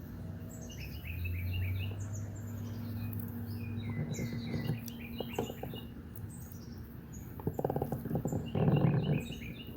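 Small birds chirping repeatedly in short falling notes, over a low steady hum. Near the end a louder, rough, noisy burst sounds for about a second.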